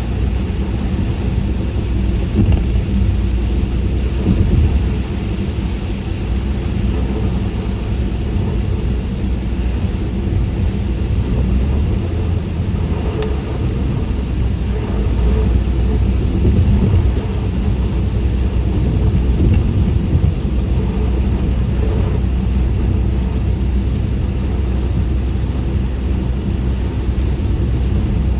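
Steady low road and engine rumble heard inside a car driven in the rain with the windows up, with tyre hiss over it, rising and falling slightly.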